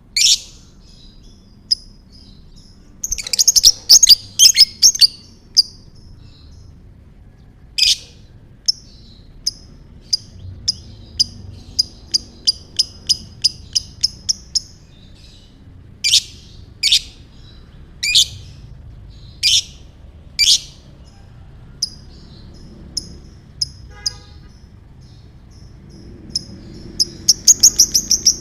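Lovebird calling: sharp high chirps and squawks, with quick rattling chatter trills about three seconds in and again near the end, and a run of fast repeated chips in the middle.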